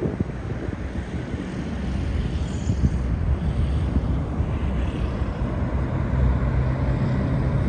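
Propeller airplane engine droning steadily overhead, with a low hum under wind noise on the microphone.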